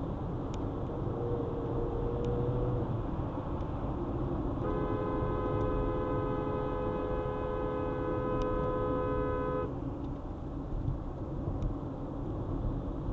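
Car horn held for about five seconds over steady road noise from traffic, then cut off. A fainter, shorter tone comes about a second in.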